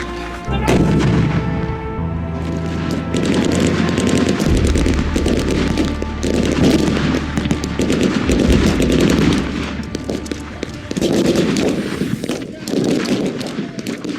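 Rapid gunfire, with machine-gun bursts and single shots, over background music with steady low notes.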